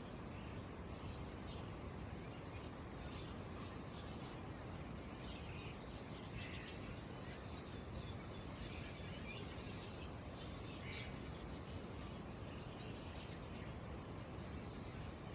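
Birds chirping now and then over a steady, high-pitched insect trill, with a couple of brief louder calls, amid the low background noise of a bird market.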